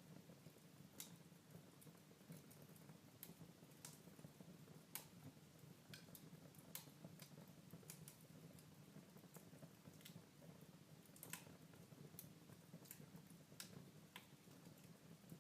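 Wood fire crackling faintly in a fireplace: irregular sharp pops and snaps, several a few seconds apart, over a low steady background.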